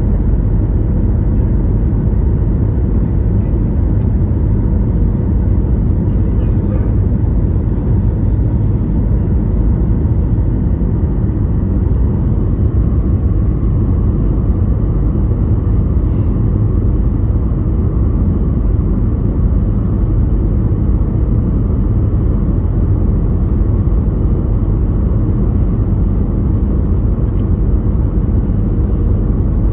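Steady low rumble of a moving road vehicle, with no change in level or pitch.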